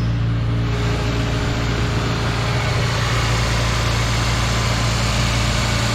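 Toyota Corolla Seca rally car's engine idling steadily.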